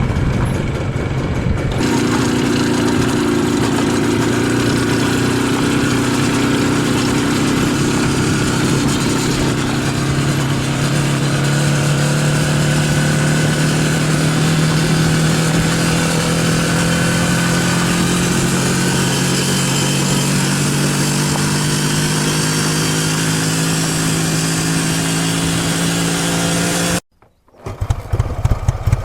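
IZh Jupiter-5 motorcycle's two-stroke twin-cylinder engine running steadily, its revs creeping slowly upward. The sound cuts off abruptly near the end, then the engine is heard again running with a regular, pulsing beat.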